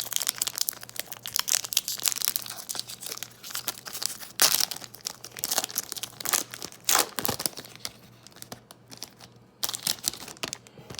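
Cellophane wrapper of a trading-card cello pack being torn open and crinkled in the hands: a dense run of sharp crackles with a few louder rips.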